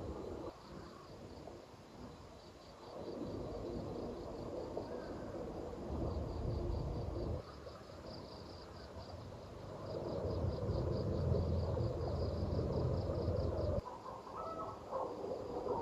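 Insects chirping in a steady, evenly pulsed rhythm, with two stretches of louder low noise that start and stop abruptly, and a short pitched call near the end.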